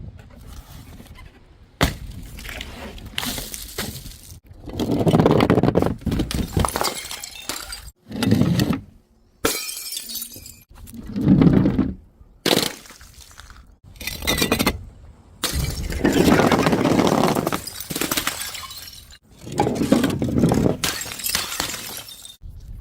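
Glass bottles smashing one after another, each a loud crash of shattering glass with tinkling shards, in back-to-back takes that cut off abruptly.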